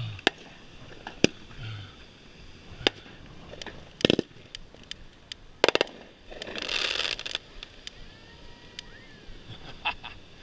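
Fireworks going off: scattered sharp bangs, with a quick string of reports about four seconds in and again near six, followed by about a second of crackling.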